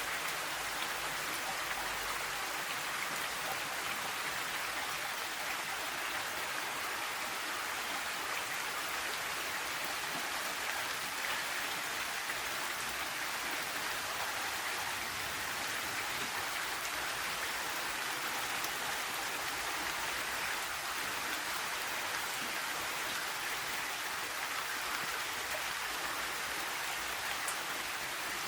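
Steady summer rain falling and pattering on surfaces.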